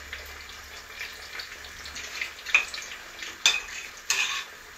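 Oil sizzling steadily as patacones (green plantain slices) fry in a pan. A few sharp clinks and scrapes of utensils come about halfway through and near the end.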